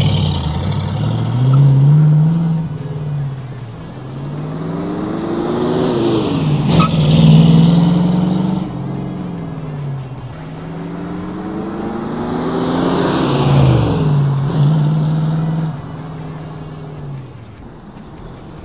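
1964½ Ford Mustang's D-code 289 four-barrel V8 being driven hard past the camera. Its pitch climbs with the revs and drops at each gear change, with the loudest surges about a third and two-thirds of the way in, then the engine note settles and fades.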